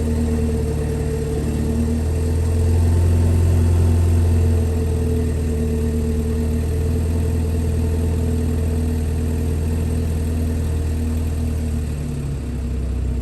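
BMW 330i's 2.0-litre turbocharged four-cylinder engine idling high just after a cold start. The idle steps down slightly about four and a half seconds in and dips briefly near the end.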